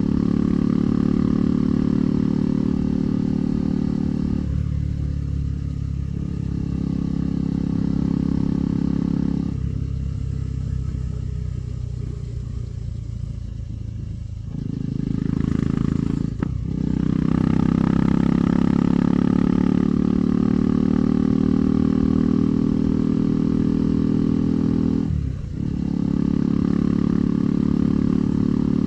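KTM 390 Adventure's single-cylinder engine running under way, the throttle easing off for a few seconds near the start and again for about five seconds in the middle. It picks up again, with two brief sharp drops in engine sound, one about midway and one near the end.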